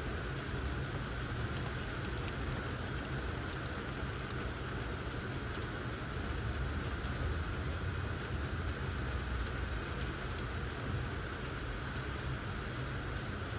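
Steady rain falling during a thundershower: an even hiss with scattered faint drop ticks and a low rumble underneath.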